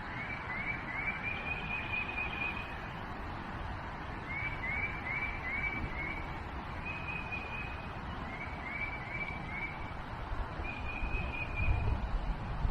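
A songbird singing repeated short phrases, alternating a quick run of three or four rising notes with a single longer level note, over a steady outdoor hiss. A few low rumbles come near the end.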